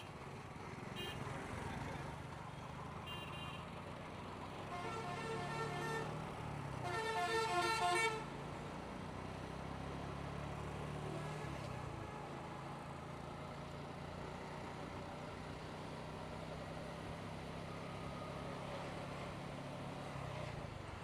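Motorcycle engine running steadily with road noise, while vehicle horns honk: short toots about one and three seconds in, then two longer honks between about five and eight seconds in, the second the loudest.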